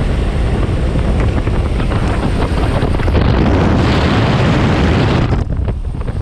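Loud wind rumbling and buffeting the microphone, a dense rushing noise that eases somewhat about five and a half seconds in.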